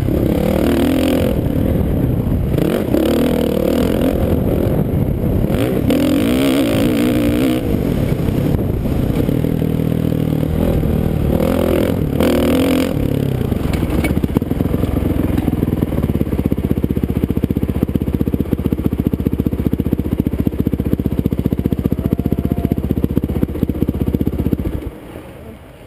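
Motocross dirt bike engines revving up and down, the pitch rising and falling repeatedly, then running more steadily for the second half before the engine sound drops away suddenly near the end.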